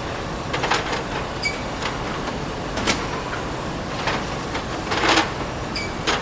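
Plate-making machinery running steadily, with irregular knocks and clatter and two short, ringing clinks of hard plates or metal.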